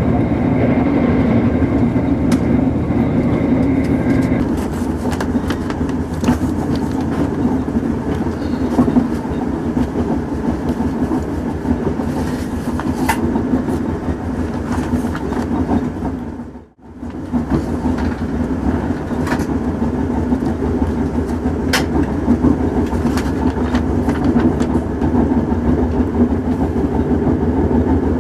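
Diesel train running, a steady rumble with occasional sharp clicks. It cuts out briefly about seventeen seconds in.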